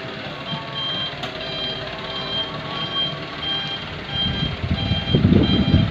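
Dump truck's reversing alarm beeping steadily, about twice a second, over the truck's engine running, which gets louder in the last two seconds.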